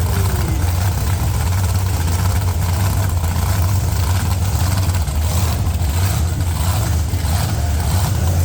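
Monster truck engine idling with a loud, steady, deep rumble. A short falling whine fades out in the first half-second.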